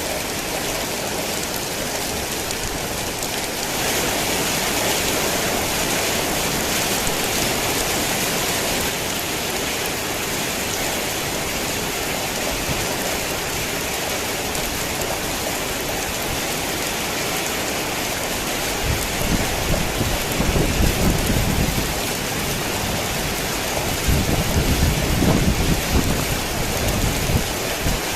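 Heavy rain falling steadily, a little louder from about four seconds in, with two spells of low rumbling thunder in the second half.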